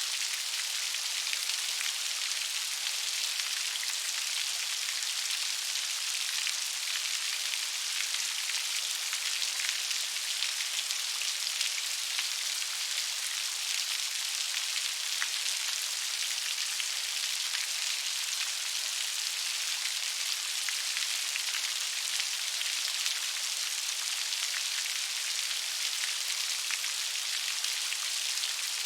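Steady gentle rain: a dense, even patter of fine drops with a high, hissing character and no low rumble.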